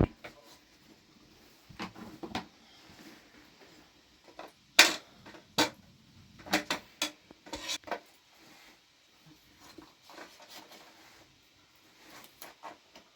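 Metal utensils and dishes being handled: irregular clinks and knocks, with quiet gaps between them and the sharpest knock about five seconds in.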